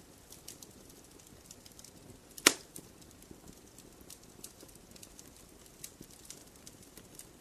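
Wood fire crackling in a fireplace: scattered small crackles, with one loud sharp pop about two and a half seconds in.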